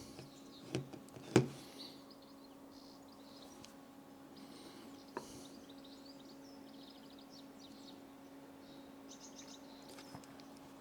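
Birds chirping in short, high phrases over a steady low hum. Two sharp clicks come about a second in, the second much louder, and a lighter click follows near the middle.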